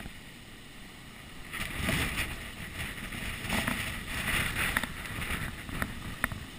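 Wind gusting hard for a few seconds through the storm, heard muffled through a GoPro's closed waterproof housing. It swells about a second and a half in, then eases off, and a few sharp clicks follow near the end.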